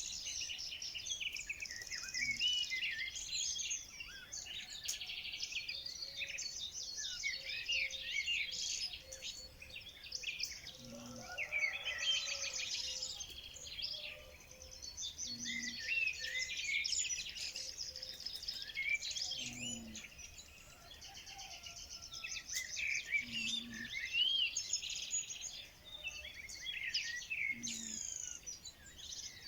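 Dense chorus of many songbirds chirping and trilling. A faint low note repeats every four seconds or so beneath them.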